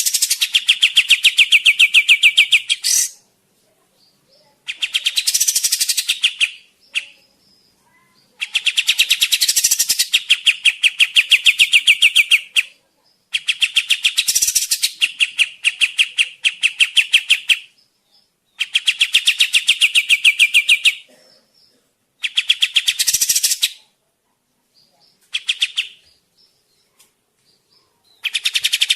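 Kapas tembak bird song in repeated bursts of rapid, fast-repeated chattering notes. Each burst lasts one to four seconds, with short pauses between them, about eight bursts in all.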